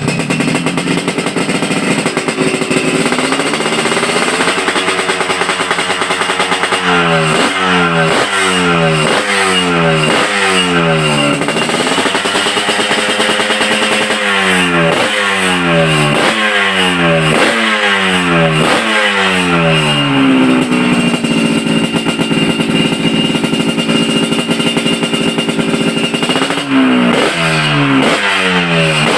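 Yamaha RX-King two-stroke single-cylinder engine running through a standard-racing style exhaust with a silencer, revved in runs of quick throttle blips about one a second, between stretches held steady at a raised speed.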